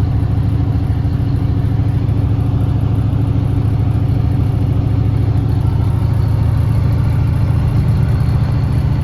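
Mack truck's V8 diesel engine running steadily under way, a deep, even drone with no change in pitch.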